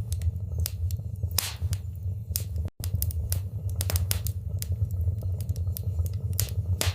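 Wood fire in a fireplace crackling, with irregular sharp pops and snaps over a steady low rumble of the flames. The sound cuts out for an instant a little under three seconds in.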